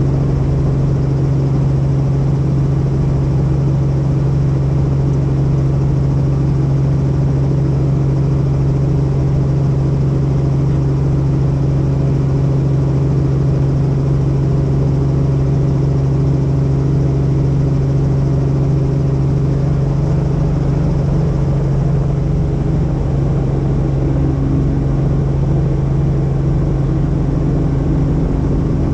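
Helicopter in flight: a steady drone of rotor and engine with a strong, constant low hum.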